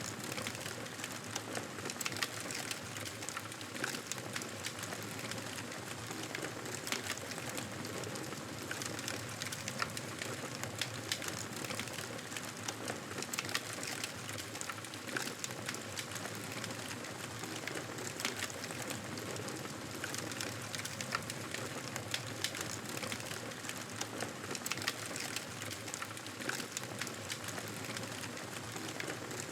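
Wood fire crackling in a fireplace: a steady hiss with frequent small sharp pops and snaps throughout.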